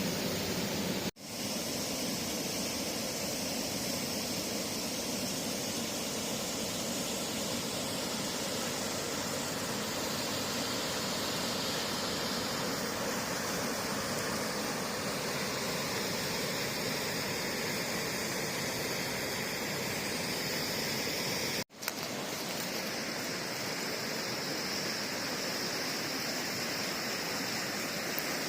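Steady rushing noise of flowing river water, broken twice by brief dropouts where the recording is cut, about a second in and again past the twenty-second mark.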